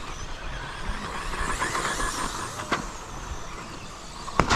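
Radio-controlled 1/10 electric stadium trucks racing around the track, their motors and tyres making a steady noisy buzz that swells a little about two seconds in. Sharp knocks about two and a half seconds in and near the end, as trucks land or hit something.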